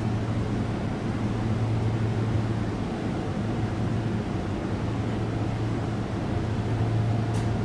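Sotetsu Line electric train giving a steady low hum over a noisy rumble, with a brief faint high squeak near the end.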